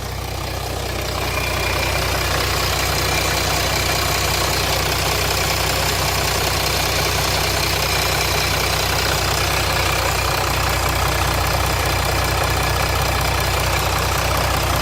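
Jeep Grand Cherokee 3.0 CRD's Mercedes OM642 V6 diesel idling steadily with a rattle. It gets louder over the first couple of seconds, then holds steady. The oil pressure warning is on at idle, and the owner thinks a loose timing or oil pump chain could be the cause.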